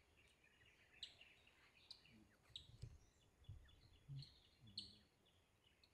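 Faint forest birdsong: small birds giving short, high chirps and sharp notes, several seconds apart, the clearest about a second in and near the end. A few soft low thumps sound in the middle.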